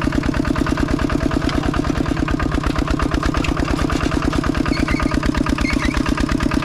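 Engine running steadily with a fast, even chugging beat, about ten pulses a second.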